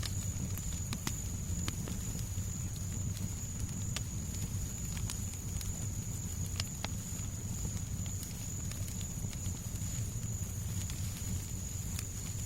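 Fireplace crackling, with scattered sharp pops a few times a second, over a steady low noise bed and a faint steady high hiss.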